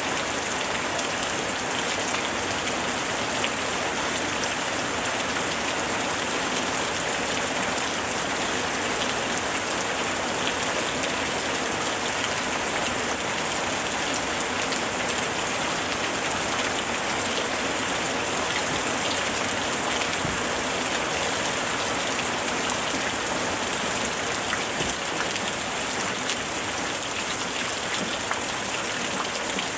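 Steady heavy rain falling and pattering on surfaces, an even hiss dotted with drop clicks.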